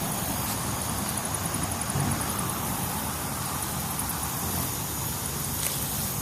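Steady low rumble of distant road traffic, with no single event standing out.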